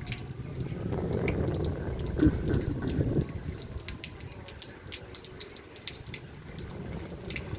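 Gusty storm wind with rain, the wind rumbling on the microphone. It swells about a second in and eases after about three seconds, with scattered ticks throughout.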